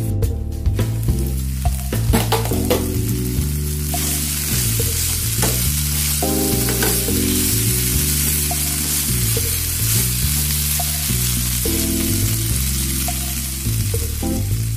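Sliced mushrooms and onions sizzling as they fry in a non-stick pan, being stirred with a wooden spatula. The sizzle grows louder and denser about four seconds in and eases just before the end. Background music plays underneath.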